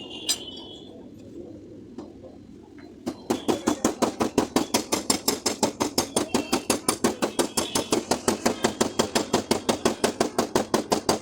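Rapid, even light hammer taps on a car door's sheet metal, about eight a second, starting about three seconds in. This is typical of paintless dent repair, tapping down the panel.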